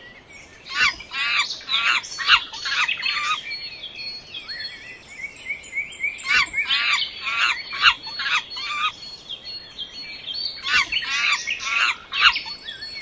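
Bird chirping in three quick bouts, each a rapid run of short, downward-sweeping chirps, with short pauses between the bouts.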